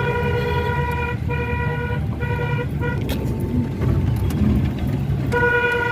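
Vehicle horn honking in a series of short blasts (three in the first three seconds, another near the end) over the steady low rumble of a vehicle running.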